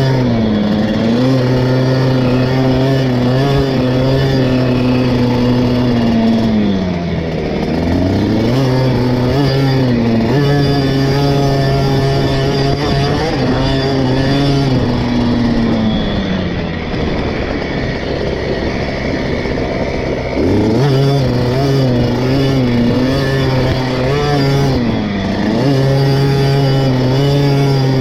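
KTM 50 SX's small two-stroke single-cylinder engine heard on board while riding motocross laps. It holds high revs, drops in pitch when the throttle is rolled off several times, with one longer off-throttle stretch in the middle, and revs back up each time.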